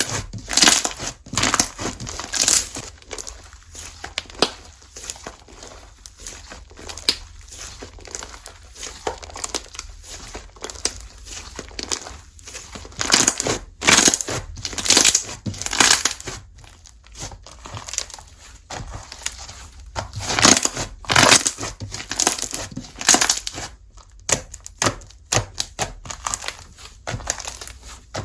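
Slime being squeezed, stretched and pressed by hand, giving irregular crackling and popping squishes in uneven clusters.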